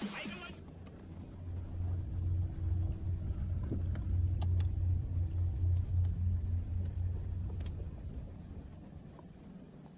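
Low engine rumble of a motor vehicle, swelling about a second in, holding steady, then fading away near the end.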